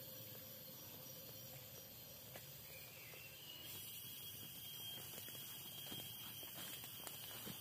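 Forest ambience: a steady high-pitched drone of insects with a few faint ticks and rustles. The insect tone changes a little past halfway.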